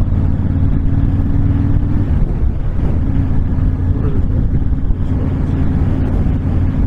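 Honda VTX1300 V-twin motorcycle engine running steadily at road speed, with wind buffeting the microphone.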